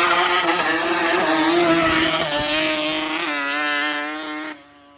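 Dirt bike engine running at high revs, its pitch wavering and stepping. It cuts off suddenly about four and a half seconds in, leaving a fainter engine falling in pitch.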